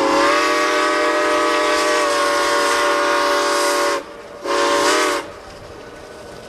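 Steam locomotive whistle blowing one long blast of about four seconds, then a short blast. Afterwards the quieter running noise of the train continues.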